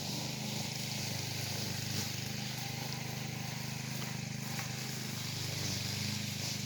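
A steady low mechanical hum, with a steady hiss above it.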